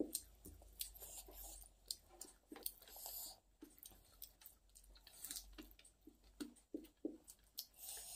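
Faint close-up chewing of a mouthful of rice, with irregular soft clicks.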